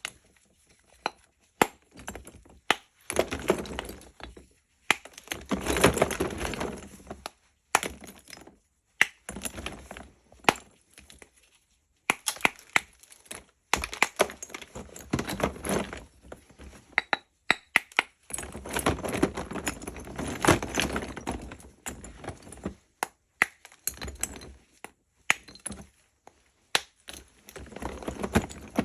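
Lumps of natural 'Barsuk' chalk being broken apart: sharp cracks and crumbly crunching come in irregular bursts, with short pauses between them.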